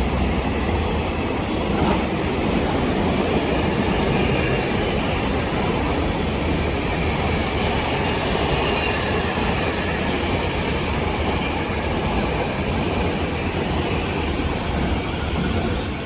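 A train running past on the rails: a loud, steady rumble of wheels on track, with a faint high wheel squeal about halfway through.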